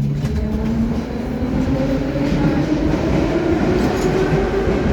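Metro train running on the rails, a loud rumble with an electric motor whine that rises in pitch over the first few seconds.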